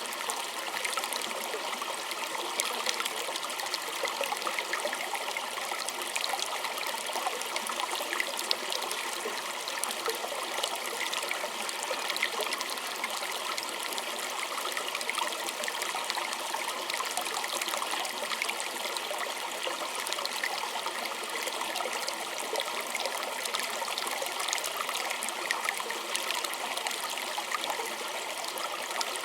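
A small stream trickling and babbling steadily over stones, with fine splashing and no deep rush.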